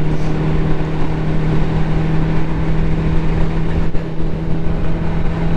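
Ducati motorcycle engine running at a steady, even speed while riding, over a low rush of wind noise.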